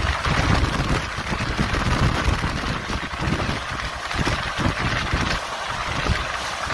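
Express passenger train running: a fluctuating low rumble from the wheels and track under a steady rush of air noise.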